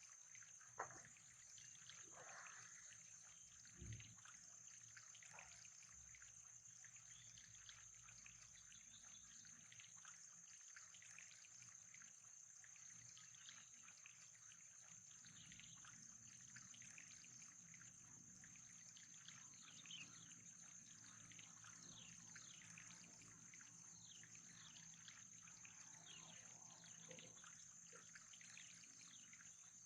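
Faint trickling water, with a steady high-pitched whine throughout and a couple of soft knocks in the first few seconds.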